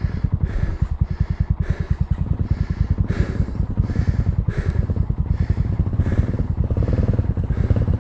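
Small single-cylinder motorcycle engine running steadily, a fast even pulse.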